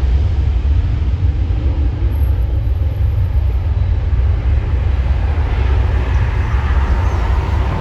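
Loud, steady low rumble of a jet airliner's engines, with the higher engine noise swelling about six seconds in.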